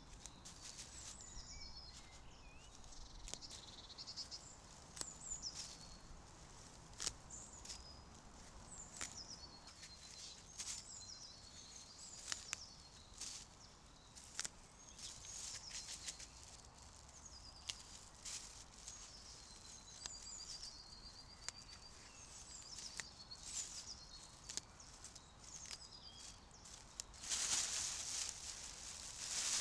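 Woodland birds singing, short phrases repeating throughout, with scattered small clicks and snaps. A louder rustling starts about two seconds before the end.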